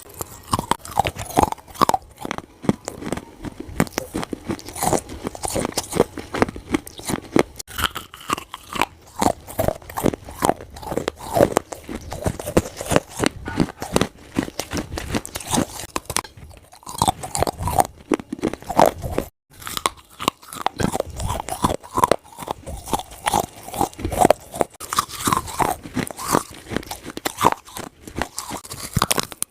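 Wet clay plates being crunched and crumbled: a dense, continuous run of crisp crunches and crackles, with a brief gap about two-thirds of the way through.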